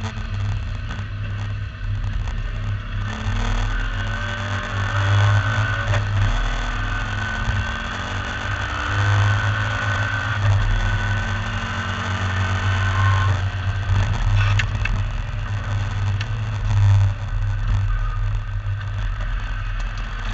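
MGB V8 race car's V8 engine running hard, heard from on board, its revs rising and falling.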